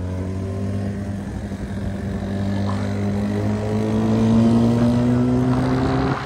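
Motorcycle engine pulling under way, its pitch climbing slowly and steadily, then falling away suddenly near the end.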